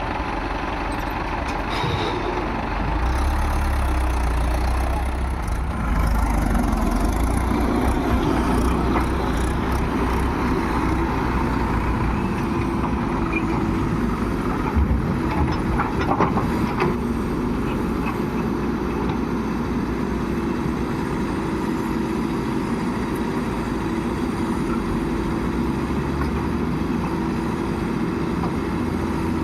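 Diesel engine of earthmoving machinery running steadily, growing louder about three and six seconds in as it works harder. A few sharp knocks come around halfway.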